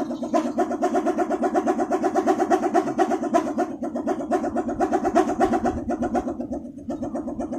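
Balinese pindekan, a wooden wind-driven propeller, spinning in the wind with a rapid, pulsing drone: the throbbing 'mecedut' sound. It starts abruptly and dips briefly near the end.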